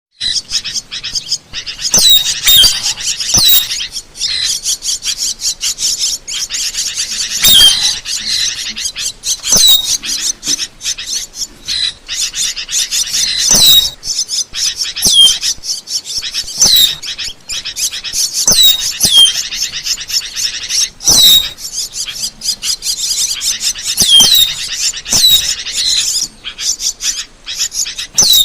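Asian glossy starling calling: a busy run of sharp high chirps and clicks, broken every second or two by loud, quickly falling whistles.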